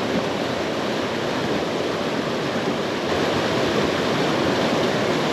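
Steady rushing of a small river's flowing water, an even unbroken noise.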